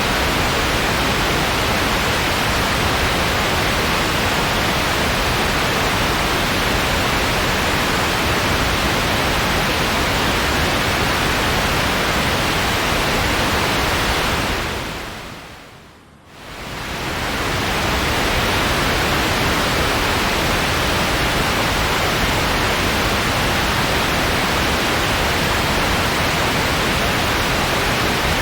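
Steady white noise, an even hiss with no pattern. It fades away and comes back over about three seconds, a little past halfway through, like a loop seam.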